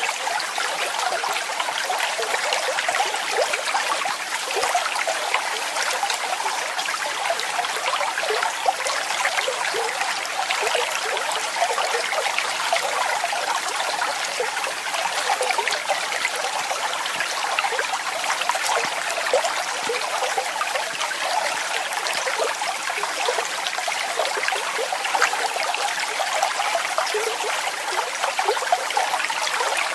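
Falling water splashing steadily, a continuous bright rush with little low rumble.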